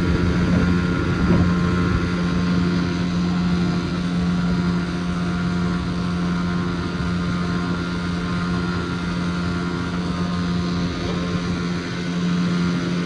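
Motorboat engine running steadily at an even pitch, with wind and water noise.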